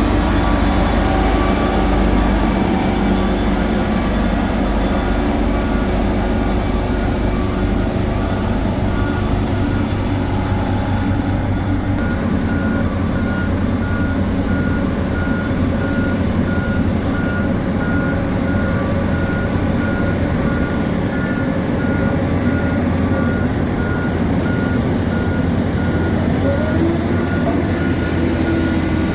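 Diesel engines of road-paving machinery running steadily, with a backup alarm beeping at an even rate throughout.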